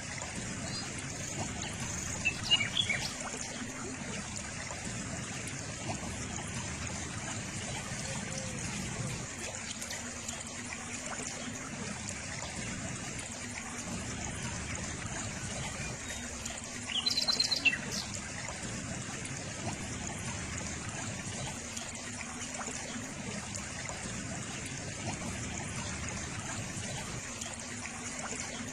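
Steady trickle of running water, with brief bird chirps twice.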